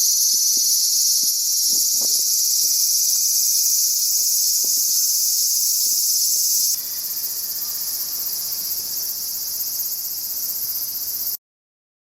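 Cicadas singing in a loud, dense, high-pitched chorus. About two-thirds through, the sound switches abruptly to a quieter chorus of a different tone, then cuts off shortly before the end.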